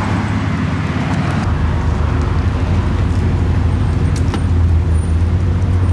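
Bugatti Chiron's quad-turbo W16 engine running at low revs, a steady deep drone, as the car rolls slowly away from the curb.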